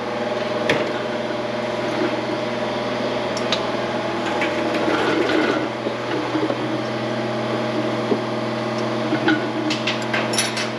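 Steady machine hum of shop fans or ventilation, with scattered small clinks and rubbing of hand tools being handled, several close together near the end.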